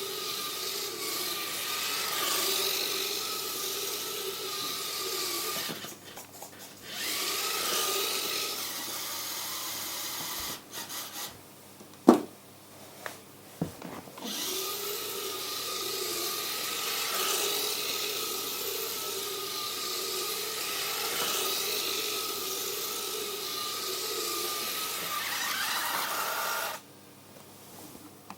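Modified WLToys K989 mini RC cars' small electric motors and drivetrains whining as they drive. The whine stops briefly three times, the longest gap in the middle, where two sharp knocks are heard.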